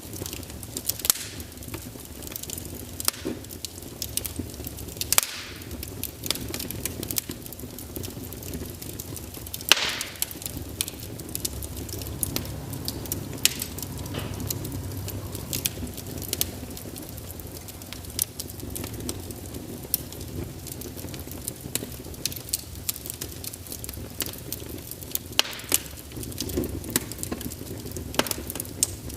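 Wood fire burning in a fireplace: a steady low rumble of flames under irregular crackles and sharp pops from the burning logs, a few louder snaps among them.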